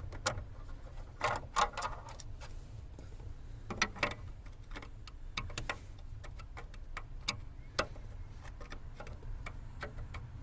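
Irregular light clicks and ticks from a hand tool working the T20 screws out of the plastic steering column cover, some coming in short quick runs.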